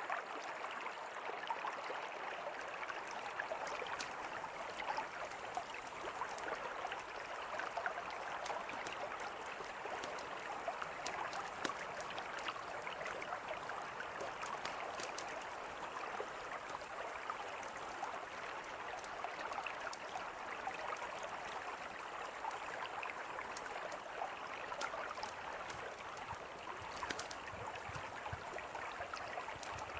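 Mountain river flowing steadily, with a campfire crackling in short, scattered sharp pops over the rush of the water.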